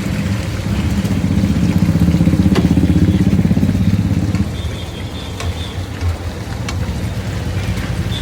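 A vehicle engine running with a low, pulsing rumble. It is louder for the first four seconds or so, then eases off. A few faint sharp clicks sound over it.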